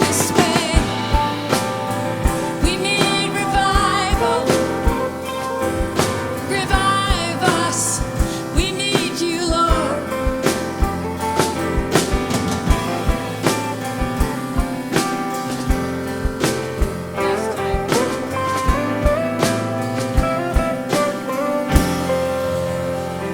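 Live band music from drum kit and guitar, with steady drum hits under held chords and a wavering high melody line; the band winds down near the end.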